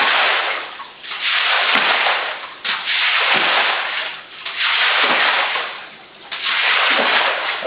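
A broom sweeping shallow floodwater out, with about five long swishing, splashing strokes in a row, each lasting about a second and a half.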